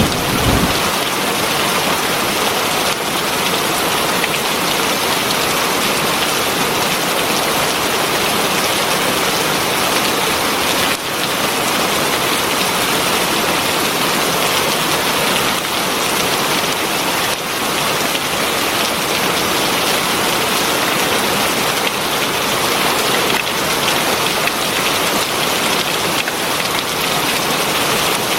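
Heavy rain falling steadily, a dense, even hiss of rain on surfaces. A low rumble dies away within the first second.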